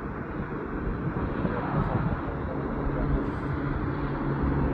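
Heavy semi-trailer truck going by on a highway, engine running with tyre and road noise. A low engine hum steadies and grows a little louder in the last second or so.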